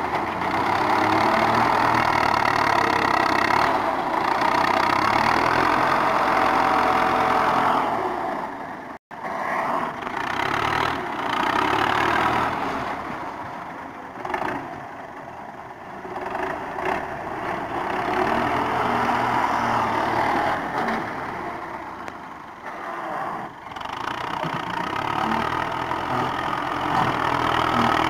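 Tractor diesel engine running under varying load, its level rising and falling, with a brief sudden dropout about nine seconds in.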